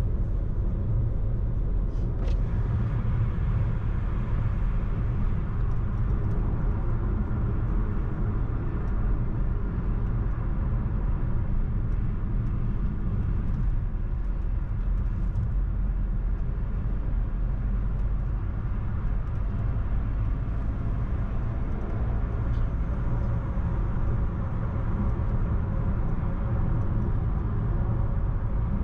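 Car driving steadily along a road: a constant low rumble of engine and tyres.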